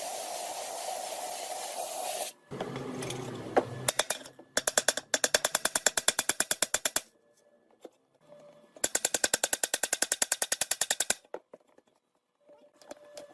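Workshop power tools: a steady hiss for the first couple of seconds, then two bursts of rapid, evenly spaced rattling strikes, about twelve a second, each lasting around two seconds.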